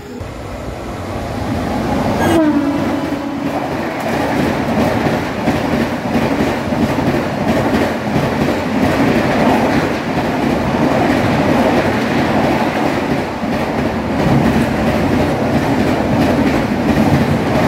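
Jodhpur–Howrah Superfast Express, a rake of LHB coaches, running through the station at speed. A steady, loud rush of wheels on rail with a fast clickety-clack, building up over the first two seconds as the coaches come alongside.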